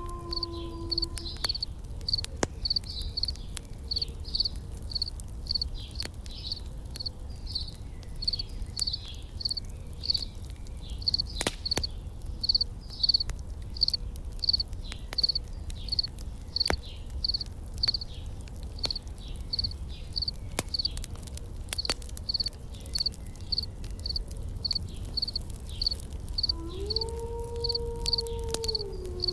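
Insects chirping in a steady high-pitched rhythm, about two chirps a second, with scattered sharp crackles from a campfire over a low rumble. A held low droning tone comes in near the end.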